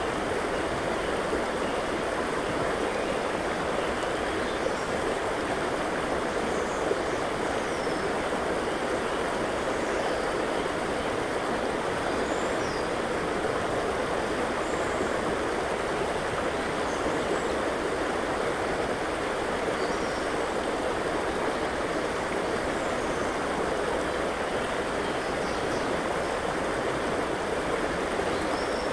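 River water flowing in a steady rush, with a few faint, brief bird chirps scattered above it.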